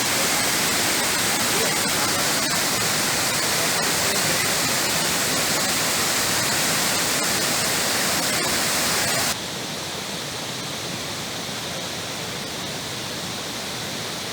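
Steady rushing of a waterfall, an even hiss of falling water. About nine seconds in it drops suddenly to a quieter, duller rush.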